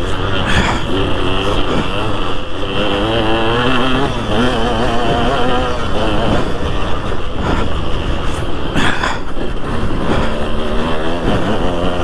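2003 KTM 200 SX two-stroke motocross bike engine being ridden, revving up and easing off again and again, its pitch rising and falling.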